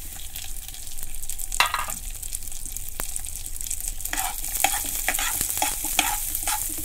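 Chopped cashews, almonds and raisins sizzling as they fry in hot ghee, with a brief clatter about one and a half seconds in. From about four seconds a steel spoon stirs them, scraping and tapping against the pan in short strokes.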